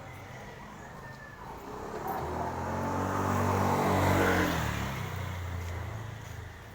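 A motor vehicle passing by: its engine and tyre noise grow louder from about two seconds in, peak past the middle, then fade away.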